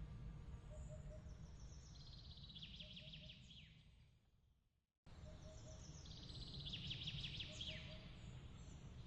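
Faint bird chirps and trills with quick falling notes over a steady low rumble and small repeating pips. About four seconds in the sound fades to silence, then cuts back in abruptly and the same chirping pattern repeats.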